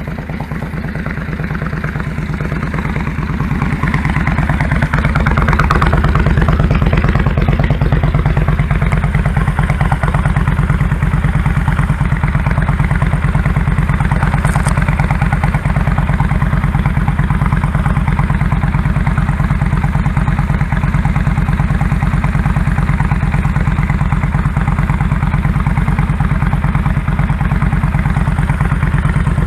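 2001 Kawasaki Drifter 1500's V-twin engine running with a steady pulsing beat. It grows louder over the first several seconds, then holds steady.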